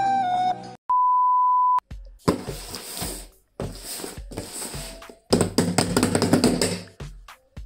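A steady single-pitch beep lasting about a second as the music cuts out. Then packaging is handled in several bursts of rustling, with a few knocks.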